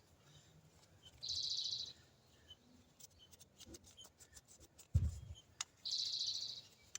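A bird calling twice, each a short high chirping trill under a second long, about four and a half seconds apart. A dull thump about five seconds in, with a few light clicks of parts being handled.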